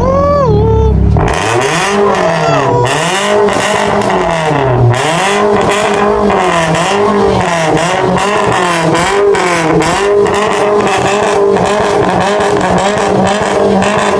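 Car engine revved over and over in a rhythm, its pitch rising and falling about once a second, like a tune played on the throttle.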